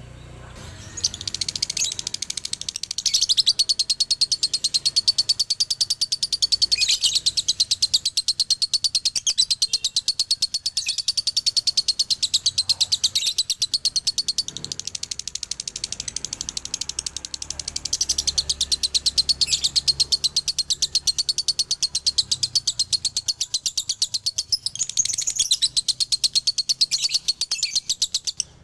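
Male lovebird singing a long, unbroken rapid chatter of high, shrill chirps: the extended 'ngekek' song that Indonesian keepers call 'dobelan'. It starts about a second in, dips briefly a few times, and stops abruptly at the end.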